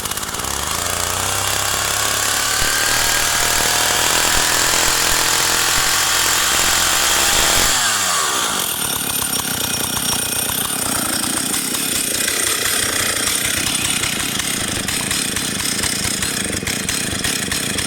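Stihl 032 AV two-stroke chainsaw held at high revs, pitch creeping up, to show the chain oiler throwing oil. About eight seconds in the throttle is released and it drops to a steady idle, which the owner thinks is a little low and could be turned up.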